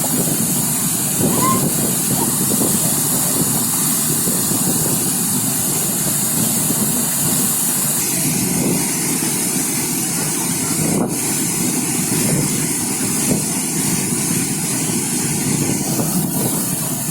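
Waterfall: a steady, loud rush of falling water. Its character shifts slightly about halfway through.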